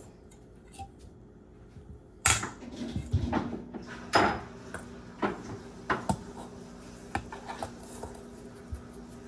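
Kitchen utensils and dishes clattering: irregular clinks and knocks that start about two seconds in, over a faint steady low hum.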